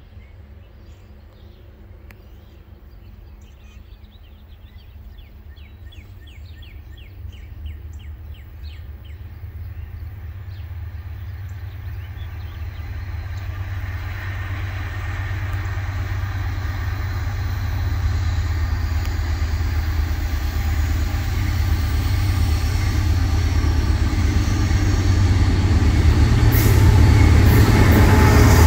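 An approaching freight train led by Norfolk Southern GE diesel locomotives: a low engine drone grows steadily louder, and wheel and rail noise swells as the locomotives draw level near the end.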